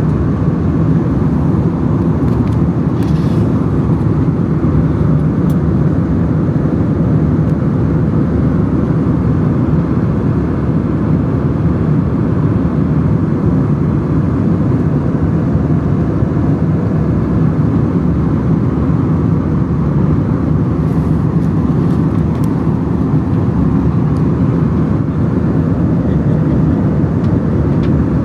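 Steady airliner cabin noise in flight: the engines and airflow make an even, unchanging drone.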